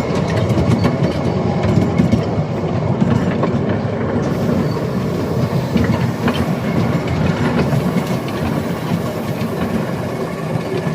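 Miniature ride-on railway train rolling along its track: a steady wheel rumble with frequent irregular clicks from the wheels passing over rail joints.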